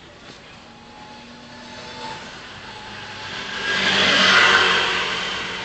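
Traffic noise from a vehicle passing close by: a rush of engine and tyre noise that swells to a peak about four seconds in and then fades.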